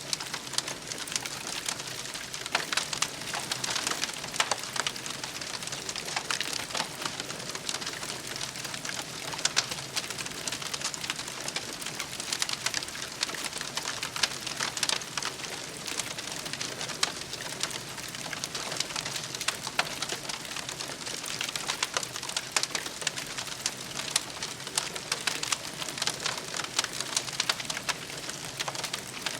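Wood campfire crackling, with dense, irregular sharp snaps and pops over a steady hiss.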